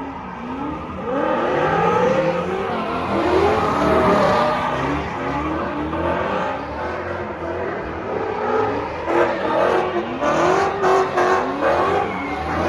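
Hemi V8 car engines revved hard again and again while cars spin donuts, each rev a rising sweep in pitch, overlapping one another, over a haze of tyre noise.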